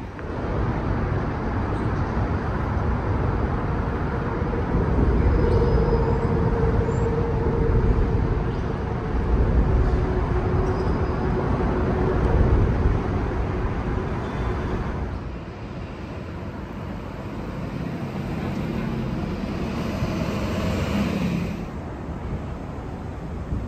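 Street traffic: motor vehicles running by with a continuous low rumble and road hiss, and a faint steady whine in the middle stretch.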